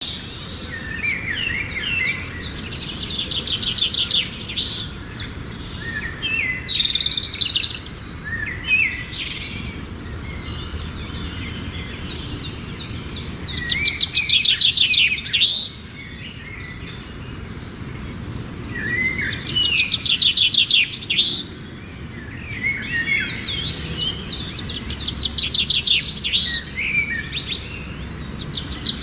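Many small birds chirping and twittering together, calls overlapping, with spells of fast rattling trills that come and go.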